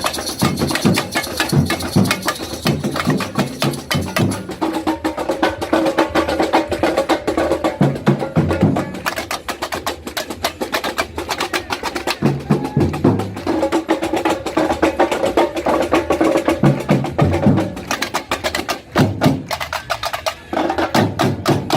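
Batucada samba percussion ensemble playing: a dense, fast run of sharp strokes over groups of deep bass-drum beats. The deep drums drop out briefly near the end, then come back.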